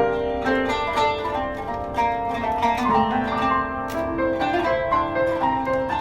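Kanun, the Turkish plucked zither, improvising a run of quick plucked notes, with held lower notes from a piano beneath it.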